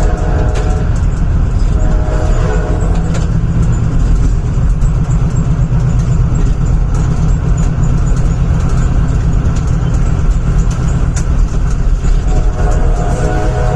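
Steady low rumble of a moving train, with brief tonal notes near the start and near the end.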